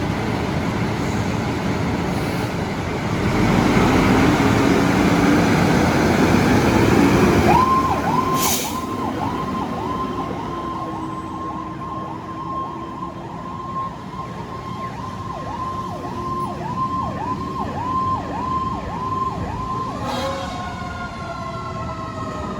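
Fire engine responding under emergency warning: a loud passing rush with a slowly rising low wind-up tone, then an electronic siren on a fast yelp from about seven seconds in, switching to a slower wail near the end.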